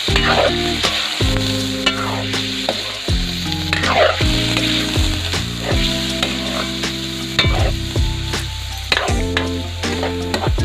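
Chicken sizzling as it fries in hot oil, with a utensil stirring and scraping the pan and scattered clicks of oil spitting. Background music plays underneath.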